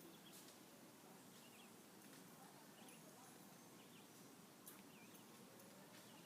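Very faint outdoor ambience: a soft steady hiss with short, faint bird chirps repeating about once a second.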